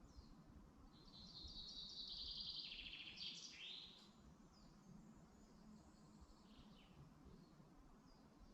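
A wild songbird singing one rapid, high trilled phrase of about three seconds that steps down in pitch and ends in quick downward sweeps, followed by a few faint bird calls, over a low steady background hum.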